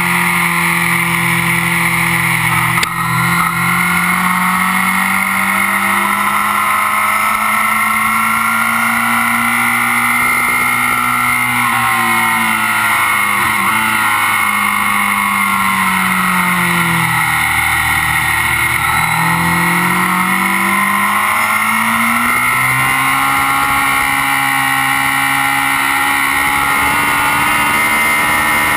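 Kawasaki Z750's inline-four engine running hard at speed on a race track, heard close up at the engine case over wind hiss. Its pitch climbs slowly, drops about two-thirds of the way through as the bike slows, then rises again and holds high. There is a brief knock about three seconds in.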